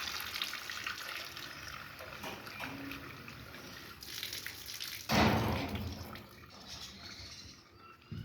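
Water running from a tap, splashing into a container, with a louder noise lasting about a second about five seconds in.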